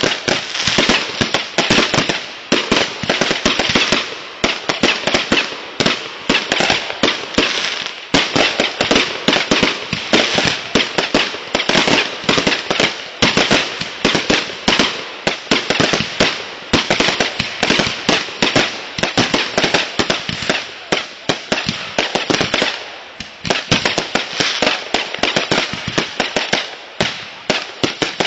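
Firecrackers going off in a rapid, unbroken barrage of sharp pops and cracks, thinning slightly for a moment about two-thirds through.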